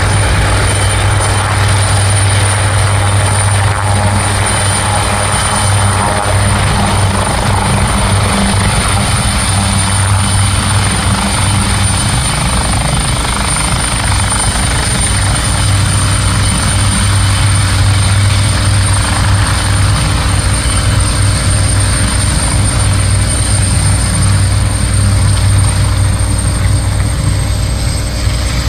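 AgustaWestland AW139 twin-turbine helicopter landing: a steady, loud low rotor beat under a high, even turbine whine. The whine dips slightly in pitch near the end.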